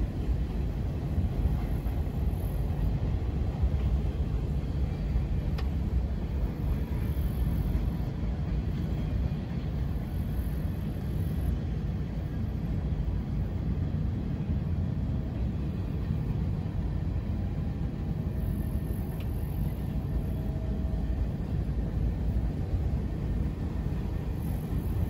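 A train rolling by with a steady low rumble.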